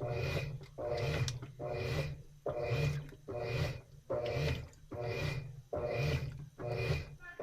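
Top-loading washing machine with a central agitator churning the wash. The agitator swishes water and clothes back and forth in a steady rhythm, with the motor's low hum pulsing on each stroke.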